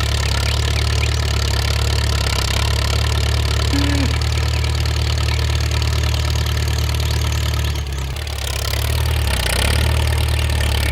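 A motor or engine running steadily with a deep hum, dipping briefly about eight seconds in.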